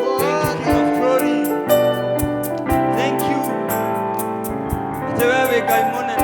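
Keyboard playing slow worship music over a steady beat.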